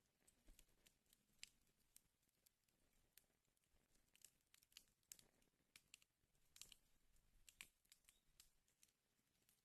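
Fire crackling in a fireplace: faint, irregular pops and snaps, several a second, over a soft hiss.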